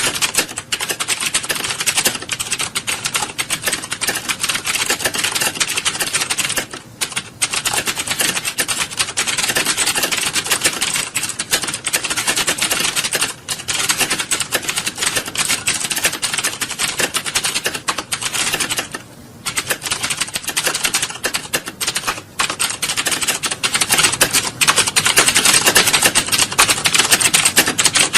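Computer keyboards being typed on in an exam hall: a dense, continuous clatter of keystrokes, with brief lulls about seven and nineteen seconds in.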